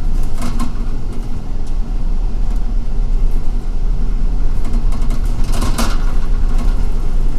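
MTA city bus heard from inside while riding: a steady low engine and road rumble, with brief rattling noises, the strongest between five and six seconds in.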